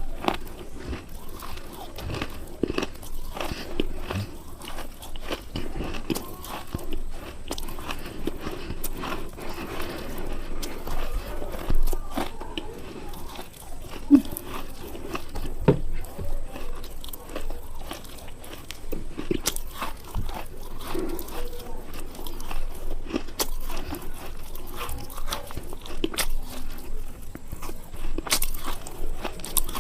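Crunchy material being bitten and chewed close to the microphone: a continuous run of sharp crunches and cracks for ASMR.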